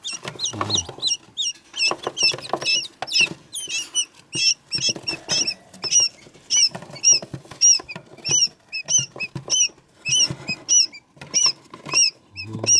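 Newly hatched quail chicks peeping: a steady run of short, high chirps, about three a second, with light taps between them.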